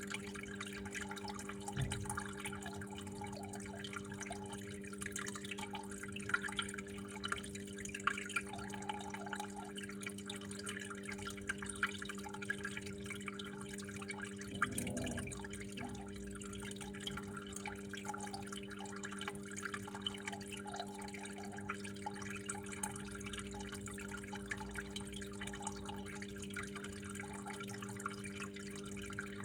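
Water trickling and dripping, with irregular drips and splashes over a steady low hum.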